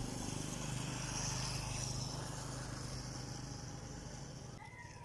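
A motor vehicle's engine drones steadily, then fades and drops away near the end. A bird's high, gliding call starts just before the end.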